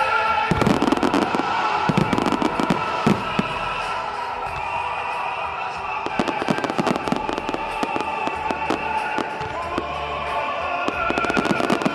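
Fireworks going off in quick succession, a steady run of bangs and crackles that thickens near the start and again near the end, with music playing alongside.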